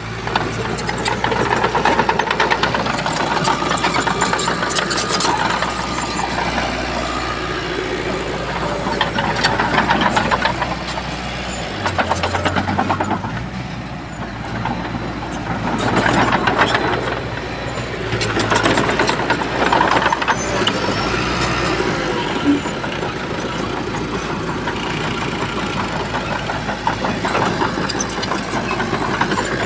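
Bulldozer's diesel engine working under load, repeatedly surging in loudness and easing off, with a steady clatter running through it.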